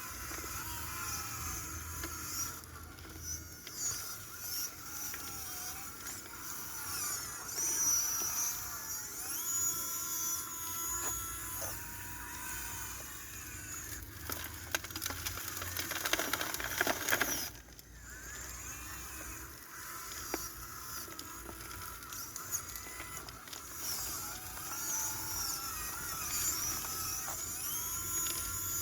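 Small electric motors of an RC excavator whining, their pitch repeatedly rising and falling as the machine works. A short burst of gritty rattling comes about two-thirds of the way through.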